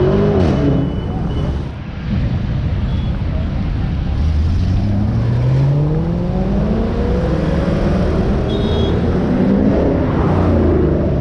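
Sports car engine revving and accelerating in traffic, with a low rumble throughout. A rev peaks and falls off about half a second in, then the pitch climbs slowly over several seconds, and another rise comes near the end.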